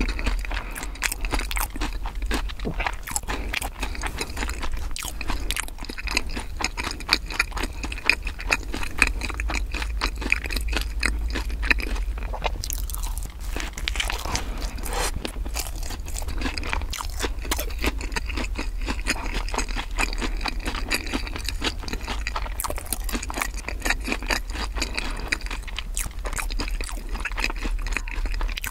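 Close-miked chewing and crunching of bread, a steady run of small crackles and wet mouth sounds, with a fresh bite into a piece of dark bread about halfway through.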